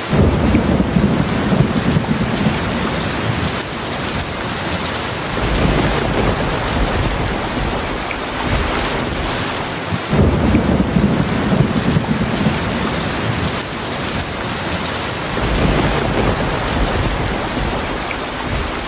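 Steady heavy rain with rolling thunder: a low rumble breaks in suddenly at the start and again about ten seconds in, each fading over a few seconds, with softer rumbles in between.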